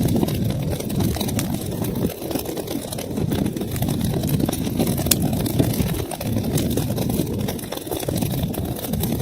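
Wood fire burning in a fireplace: a steady low rumble of flames with frequent small crackles and pops, and one sharper pop about five seconds in.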